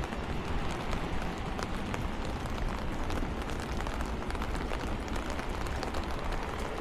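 Steady rain, with many small drops ticking on surfaces close by.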